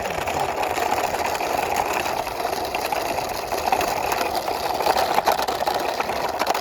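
Toy truck pushed along a surface by hand, its plastic wheels rolling with a steady rumble and a few faint clicks.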